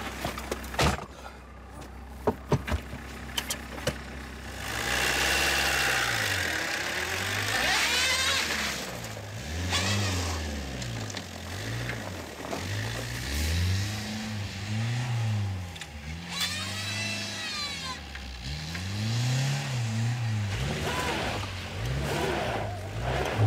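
Small hatchback car's engine revved up and down over and over, its pitch rising and falling roughly once a second, as the car tries to drive out of deep snow. A high whine rises and falls with it for a few seconds at a time, typical of wheels spinning in the snow.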